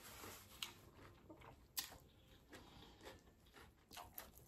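Near silence with a few faint, short wet clicks from the mouth while quietly chewing a sandwich.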